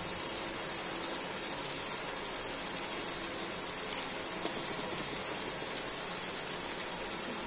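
Chicken pieces, onion and spices frying in oil in a kadhai: a steady sizzle.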